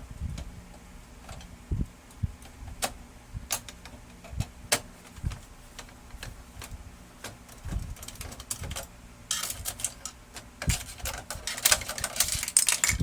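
Plastic clicks and knocks from a laser printer's casing and parts being handled during disassembly, scattered at first, then a stretch of rapid rattling and clicking near the end.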